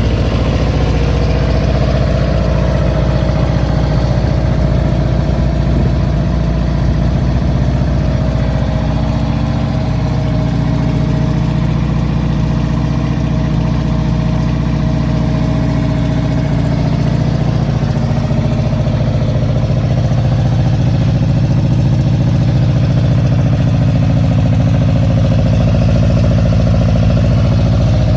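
1974 Honda CB350F's air-cooled inline four-cylinder engine idling steadily after being started.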